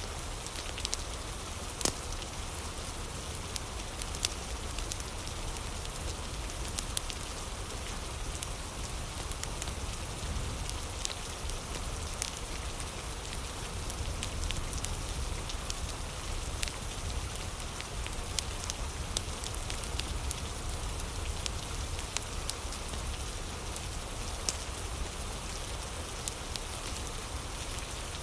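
Steady rain hiss mixed with a wood fire crackling, with scattered sharp pops every second or two.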